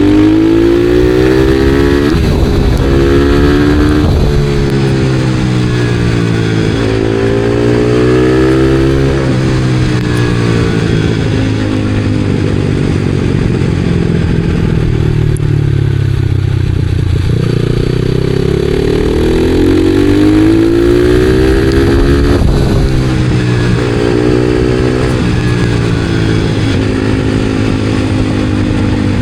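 Supermoto motorcycle engine under way, its pitch climbing repeatedly as it accelerates and shifts up through the gears. Around the middle, the pitch falls as the bike slows, then it pulls hard again.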